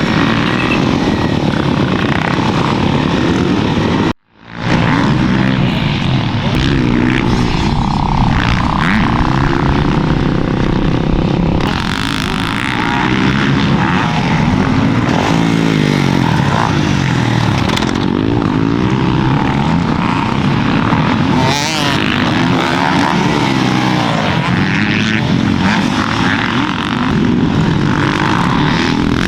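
Dirt bike engines revving up and down, the pitch rising and falling over and over. The sound cuts out abruptly for a moment about four seconds in.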